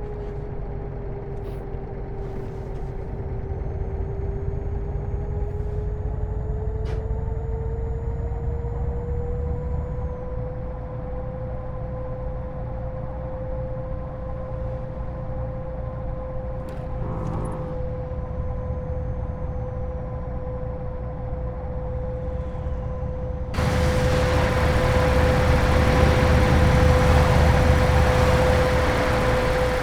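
Scania R730 truck's V8 engine running on the road: a low rumble with a steady whine that dips slightly, then rises and holds. About 24 seconds in, the sound abruptly gets louder, with much more road and wind noise.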